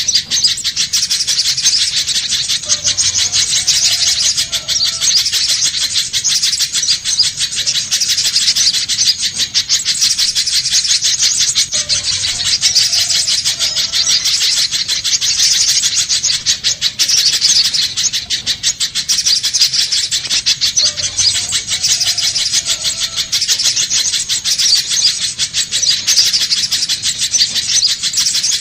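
Spiderhunter (pijantung pisang) calling nonstop in a fast, high-pitched chattering stream, played as a bird-lure track. The same stretch recurs about every nine seconds.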